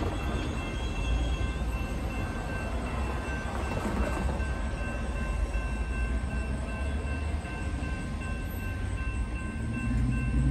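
Union Pacific diesel freight train rumbling steadily, with a few faint steady tones above the rumble. Music comes in near the end.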